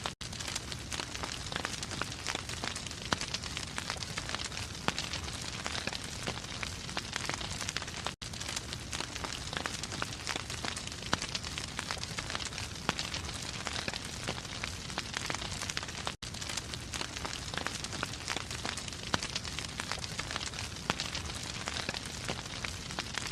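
Wood fire burning in a fireplace, crackling and popping steadily over a soft hiss, with a brief dropout about every eight seconds.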